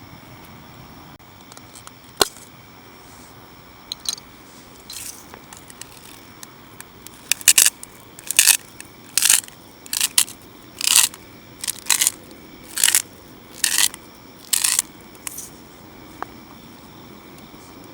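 A run of about ten short crunches, roughly one a second, after a single sharp click.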